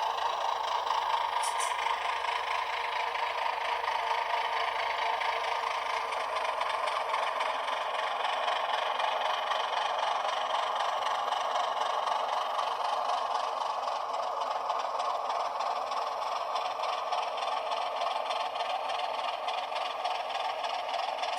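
Simulated ALCO HH600/660 diesel engine sound from a LokSound V5 decoder, played through a tiny sugar-cube speaker in an HO-scale model locomotive: a steady, thin, fast engine chug with no deep bass.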